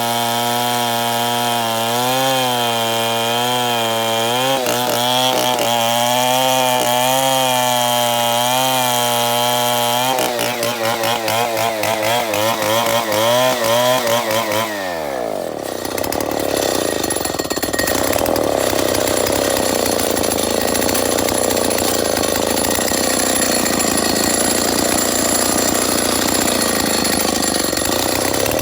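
Chainsaw engine running at high revs, its pitch wavering up and down as it works through wood. About halfway through, the note drops sharply and the saw runs on lower and rougher, with another falling glide near the end.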